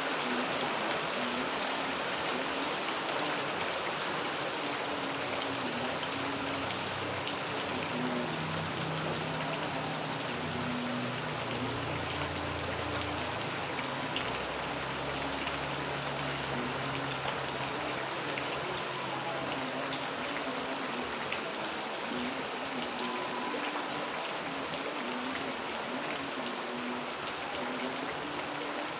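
Steady rain falling, a dense even hiss with scattered drops pattering. Under it runs a faint low hum that wavers up and down in pitch, with a deeper drone joining it for several seconds in the middle.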